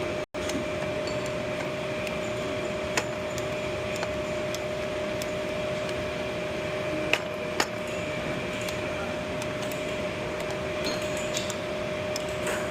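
Electric pipe threading machine running steadily with a continuous hum, with a few sharp clicks along the way.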